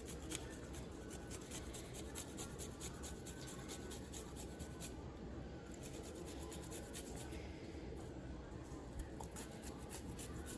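Fresh ginger being grated: a faint run of quick, light rasping strokes, broken by a couple of short pauses.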